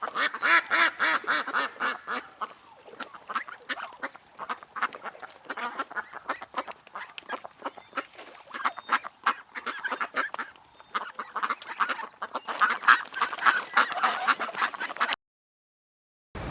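A flock of farm waterfowl calling, with many short, rapid calls overlapping one another; the calling stops abruptly about fifteen seconds in.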